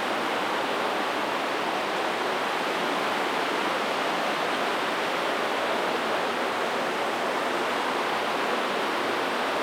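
Steady rush of water in a cave, an even hiss that holds without a break.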